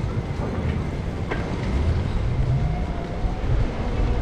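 Wind buffeting the microphone, with a steady low rumble of a bicycle rolling along the street and a couple of faint clicks, one about a second in.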